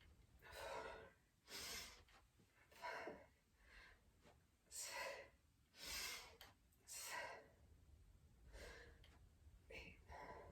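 A person breathing hard from exertion, with faint, forceful breaths about once a second, roughly nine in all.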